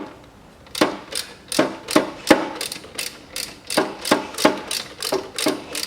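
Ratchet wrench with an E10 Torx socket clicking in a quick, even rhythm, about three clicks a second, as it backs out a belt tensioner mounting bolt. The clicks start about a second in.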